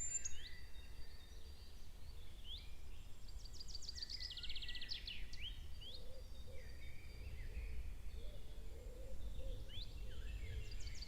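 Songbirds singing: scattered chirps and quick rising calls, with a rapid high trill about four seconds in and another near the end, over a steady low outdoor rumble.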